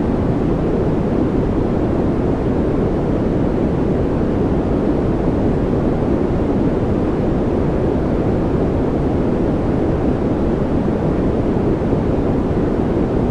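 Steady, unchanging white-noise track, deep and rumbling, with most of its weight in the low end and little high hiss.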